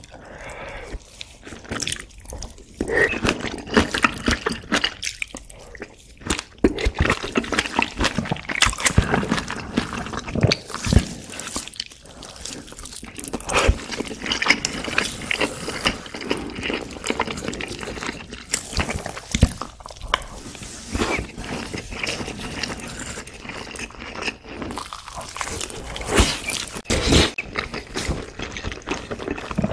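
Close-miked eating: a long strip of braised kimchi slurped into the mouth near the start, then wet chewing with a full mouth, full of small clicks and squelches.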